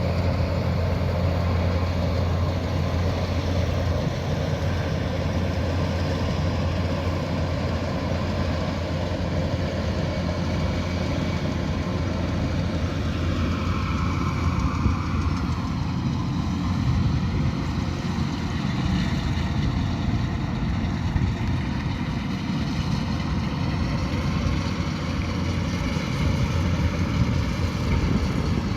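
Kubota DC108X combine harvester running steadily, its diesel engine humming under the whine of the threshing machinery. About halfway through, the whine slides lower in pitch and then holds there.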